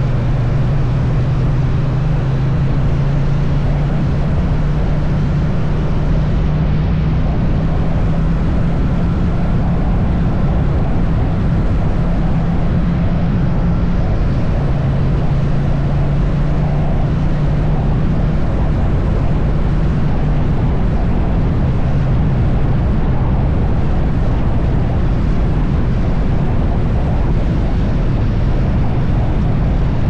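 Triumph Bonneville T100's parallel-twin engine running steadily at highway cruising speed, a constant low drone under the rush of wind and road noise.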